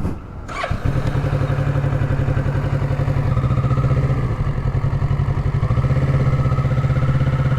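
Kawasaki Z650's parallel-twin engine starting under a second in, catching quickly, then idling steadily with an even pulsing beat.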